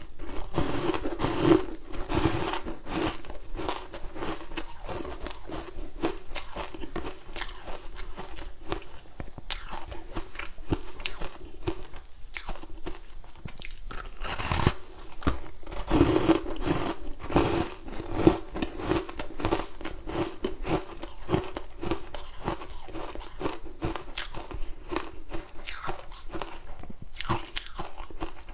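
A person biting and chewing ice close to the microphone: dense, irregular crunching and crackling throughout, heavier in spells near the start and about halfway through.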